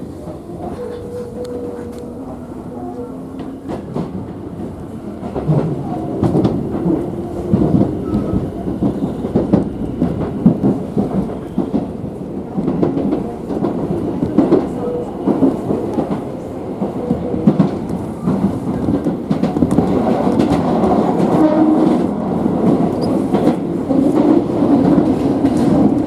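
Tobu Skytree Line commuter train running on the rails, heard from inside the passenger car: a steady rumble with the wheels clacking over rail joints, getting louder from about five seconds in.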